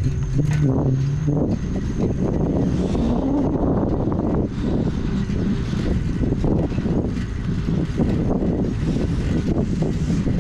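Wind rushing over the microphone with tyre and road noise from a bicycle being ridden at about 10 miles an hour, steady throughout.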